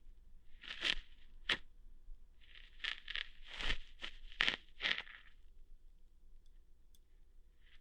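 Close-up ASMR ear-hair plucking sounds: about half a dozen short, crackly scratching and tearing strokes in the first five seconds.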